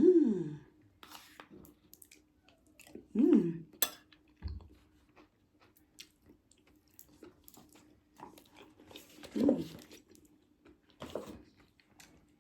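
Cutlery clicking and scraping against a plate while eating, with chewing. Three short hummed sounds fall in pitch, near the start, about three seconds in and about nine seconds in.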